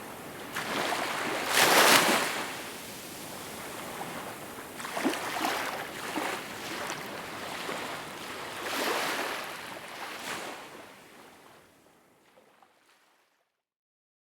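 Small waves breaking and washing in, in several surges, the loudest about two seconds in. The water sound then fades away to silence over the last few seconds.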